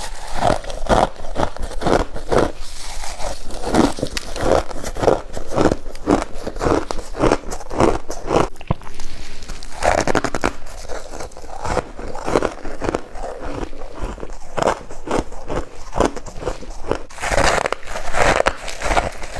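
Close-up crunching and chewing of freezer frost in the mouth, steady bite after bite at about two to three crunches a second.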